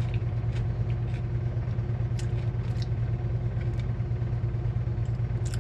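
A steady low mechanical hum with a constant pitch, with a few faint, short clicks and smacks of eating from chopsticks.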